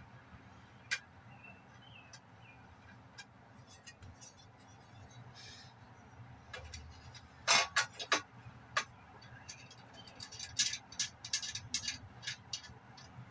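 Metal clinks and taps of bolts and hand tools being handled as a machine's cover plate is bolted back on, over a steady low hum. The loudest clatter comes about halfway through, with quicker clinks toward the end.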